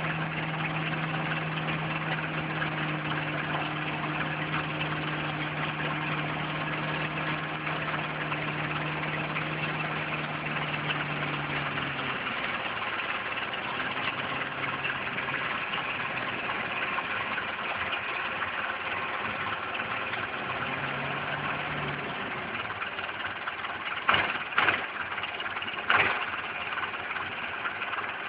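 Belarus tractor's diesel engine running steadily while cutting grass, its engine tone dropping away about halfway through and briefly coming back. Three sharp knocks sound near the end.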